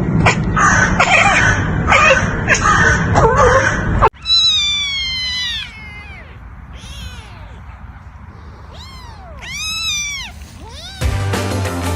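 A cat meowing: after a noisy, busy first few seconds, a run of high calls that each rise and fall in pitch. Music starts near the end.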